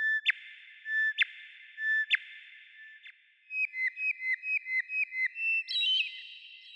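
A songbird singing clear whistled notes: three slow notes about a second apart, then a fast run of about ten short notes, ending in a higher flourish, with a lingering echo after each note.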